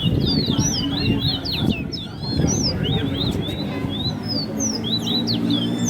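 Caged seed finch singing in a bird race: a fast, near-continuous song of quick high sliding notes, over low background voices.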